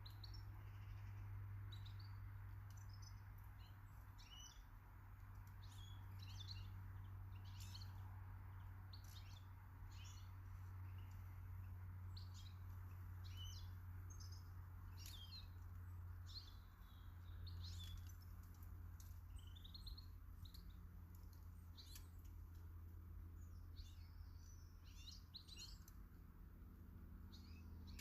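Small garden birds chirping and calling, many short quick notes scattered throughout, faint over a low steady hum.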